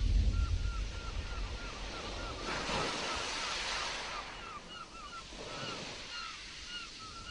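Sea waves surging with wind, a deep rumble in the first second and a wave washing in about two and a half seconds in. Through it runs a regular series of short, high chirps, two or three a second.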